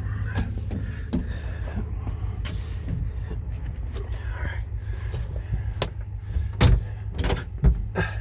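Old diesel engine idling steadily in the background, with scattered clicks and rattles and two loud thumps near the end as a frozen truck door is yanked and banged on without opening.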